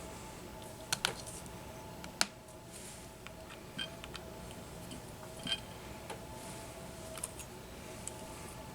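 Small clicks and taps of parts and hand tools being handled at a workbench during a drone frame repair. The sharpest clicks come about a second and two seconds in, with lighter taps later, over a steady faint hum.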